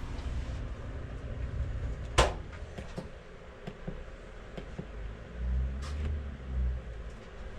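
Low electrical hum from the home's air-conditioning system, with a sharp click about two seconds in and a few lighter knocks. The hum swells louder for about a second and a half near the end.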